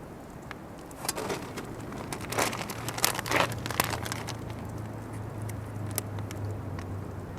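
Scattered clicks, knocks and rustling of objects being handled, with a low steady hum that comes in about three seconds in.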